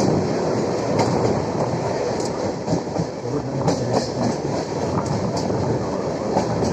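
Suburban electric local train running along the track: a steady rumble with irregular wheel clicks over the rail joints.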